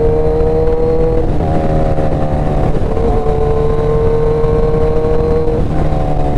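Suzuki Hayabusa's inline-four engine running under way, its note climbing slowly with speed. The pattern breaks a little after a second in, again near three seconds and once more near the end, as the throttle or gear changes.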